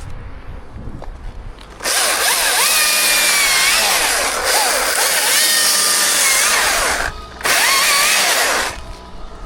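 Chainsaw cutting wood: a burst of about five seconds with the engine pitch dipping and rising under load, a brief break, then about another second of cutting.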